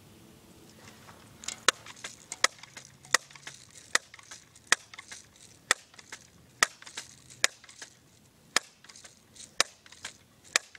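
A series of short, sharp clicks, roughly one every three-quarters of a second, starting about one and a half seconds in.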